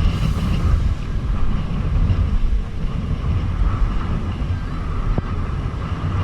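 Wind buffeting the microphone: a loud, unsteady low rumble with a steady hiss above it.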